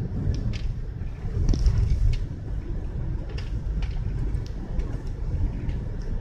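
Car road and wind rumble while driving through a blizzard, with scattered sharp ticks over it.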